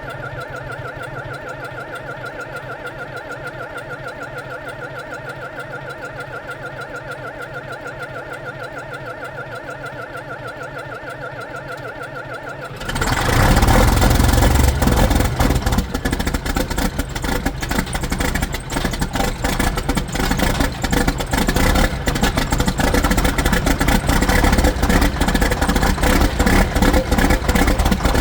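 Diesel engine of a 4430 tractor being cold started: the starter cranks it steadily and rhythmically for about thirteen seconds, then it catches and runs, loud and rough with clatter.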